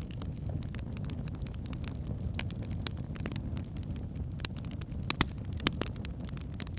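Log fire burning in a fireplace: a steady low rumble of flames with scattered sharp crackles and pops, the loudest a little after five seconds in.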